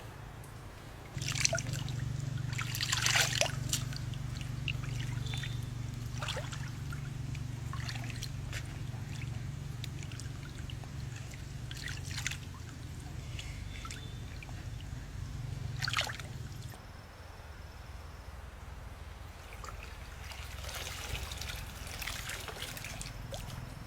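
Water trickling and splashing, with a steady low hum that starts about a second in and stops about two-thirds of the way through.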